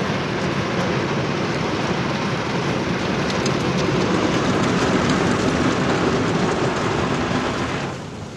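Automatic car wash spraying water onto the car, heard from inside the cabin as a loud, steady rush of water that drops away sharply near the end.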